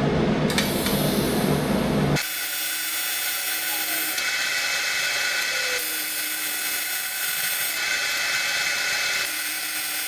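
AC TIG welding arc on aluminium pipe, a steady electrical buzz. The tone changes abruptly about two seconds in, from a heavier low hum to a thinner, higher buzz that shifts slightly every second or two.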